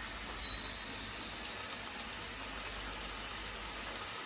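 Potato fries deep-frying in hot oil: a steady, even bubbling sizzle. The fries are nearly done, their skins turning hard and crisp.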